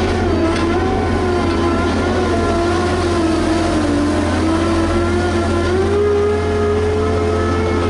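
Diesel engine of a Liebherr HS 8200 dragline crawler crane running under load, its pitch wavering with the work and rising a little about six seconds in.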